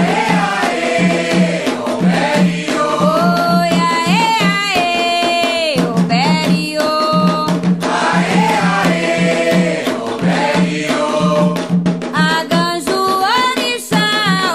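Candomblé chant sung by voices with held, gliding notes over a steady drum rhythm.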